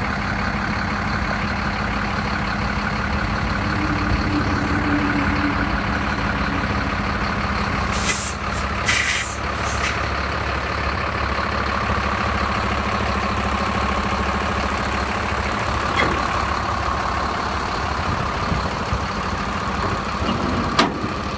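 Diesel engine of a Sterling tandem-axle dump truck idling steadily. Short bursts of air hiss come about eight seconds in and again a second later.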